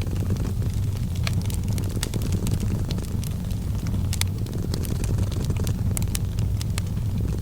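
A cat purring steadily in a low continuous rumble, mixed with a wood fire crackling in irregular sharp pops.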